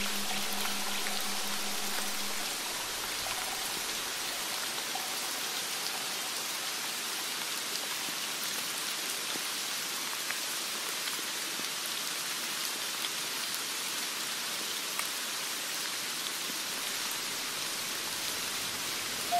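Steady rain falling, an even hiss with scattered faint drip ticks. A low held note from the accompanying music dies away about two and a half seconds in, leaving only the rain.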